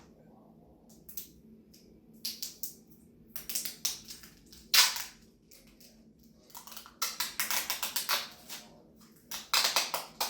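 Sticky tape being pulled off the roll and pressed down, in irregular crackling rasps, with the loudest tearing bursts about five seconds in and near the end.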